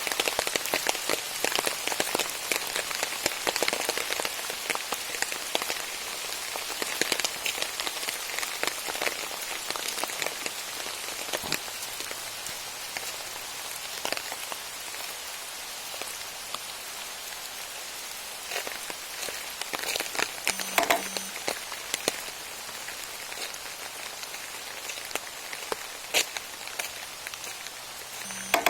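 Steady rain falling, with many close drops ticking on surfaces. It is heavier in the first half and eases later, with a few louder single drops near the end.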